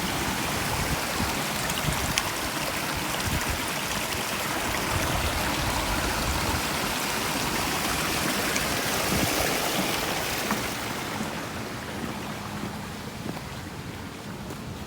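Water flowing in a small stream, a steady rushing hiss that fades away over the last few seconds.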